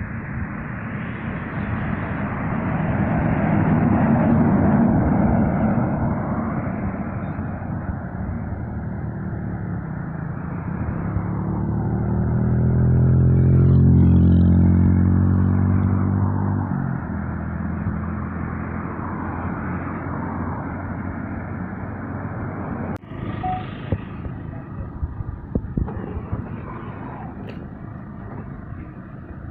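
Heavy trucks passing on a road. One swells past about five seconds in, and a louder one with a deep engine note goes by around the middle, then fades. A sharp click comes about two-thirds of the way through, with lighter traffic noise after it.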